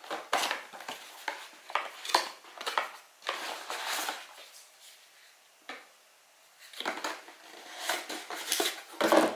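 Rustling, tapping and light knocks of a cardboard gift box and its contents being handled as it is opened and items are taken out.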